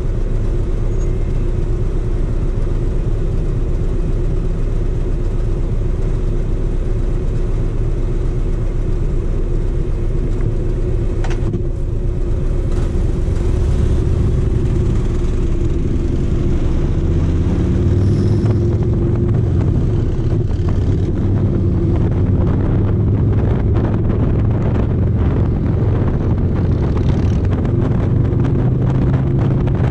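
Harley-Davidson V-twin motorcycle engine idling in stopped traffic, then pulling away about halfway through and running at road speed, with wind and road noise growing toward the end.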